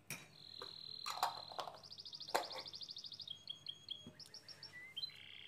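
A songbird singing in the background: a long held whistle, then a fast trill and a run of short chirps, and another held whistle near the end. A few light knocks sound over the first two and a half seconds.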